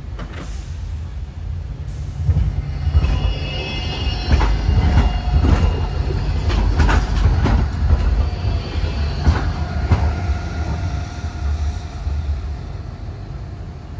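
Heavy rumbling of a large vehicle or machine, with irregular sharp metallic knocks and high squealing tones through the middle that fade toward the end.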